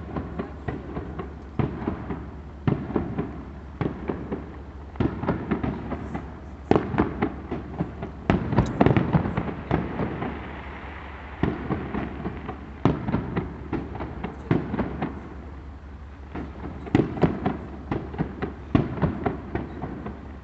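Fireworks display: shells bursting in quick clusters of bangs every second or two, densest about a third of the way in, where a dense crackling follows, with more clusters of bangs near the end.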